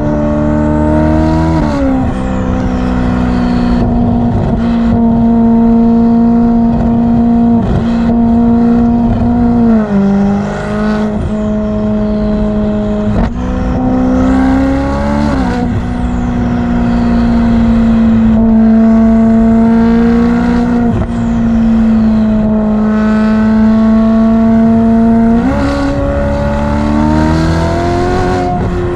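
Ferrari F8's twin-turbo V8 running through a Novitec exhaust while driving, its note mostly holding steady. The pitch drops sharply a few times, as at gear changes, and climbs steadily near the end as the revs build.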